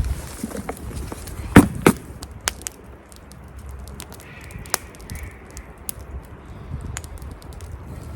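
Two sharp knocks or snaps about a second and a half in, followed by scattered small clicks, with faint distant calls in the background.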